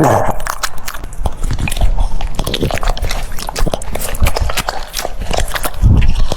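A French Bulldog crunching and chewing crisp food up close, with a rapid, irregular run of wet crunches and bites.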